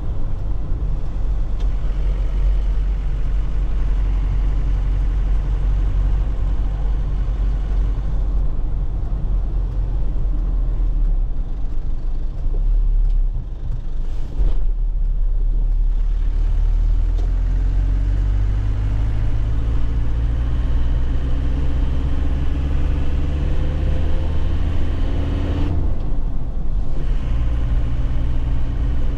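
2001 Nissan Cabstar's diesel engine and tyre rumble heard from inside the cab on a rough road. About halfway through, the engine note climbs steadily as the truck pulls in gear, breaks off briefly near the end at a manual gear change, then picks up again at a lower pitch.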